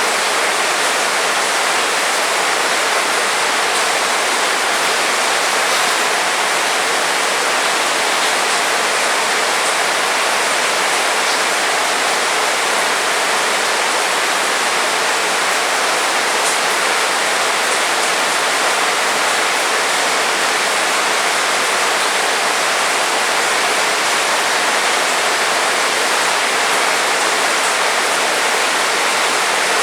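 Heavy rain falling, a steady even hiss with no thunder or breaks.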